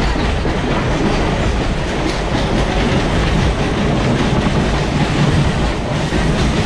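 Mumbai suburban local train running along the track, heard from inside the carriage: a loud, steady rumble of wheels on rails with rail-joint clickety-clack.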